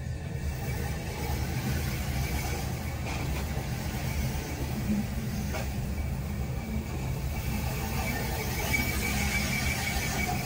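Oncoming Rhaetian Railway electric train running past close alongside, heard from inside a stopped carriage: a steady low rumble of wheels and running gear. A thin, high wheel squeal comes in near the end.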